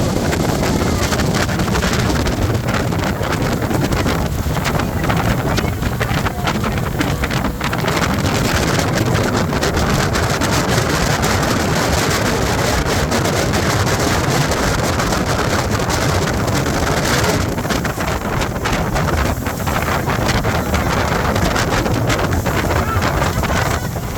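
Speedboat running at speed, with steady wind buffeting the microphone.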